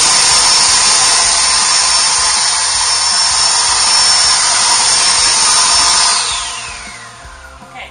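Worx Turbine 600 CFM electric leaf blower running at full speed with a loud rush of air and a steady high whine. About six seconds in it is switched off, and the whine falls in pitch as the fan spins down.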